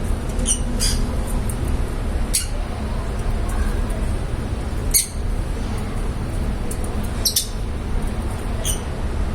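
Lovebirds giving short, high chirps every second or two, over a steady low rumble.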